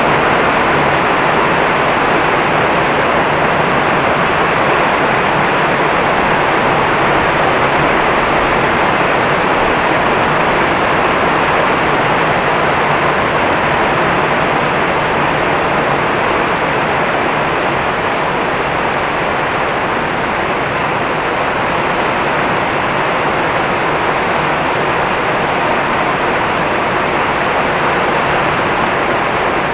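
Heavy tropical downpour: rain pouring down hard in a steady, dense rush that holds the same level throughout.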